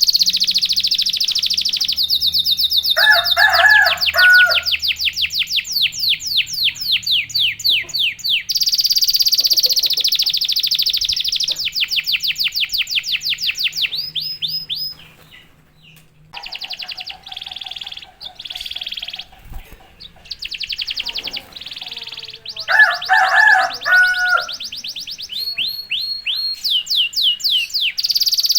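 Canary singing a fast rolling song: long trills of very rapidly repeated high notes, broken twice by a short lower warbling phrase. The song drops to a brief lull about halfway through, then takes up its trills again.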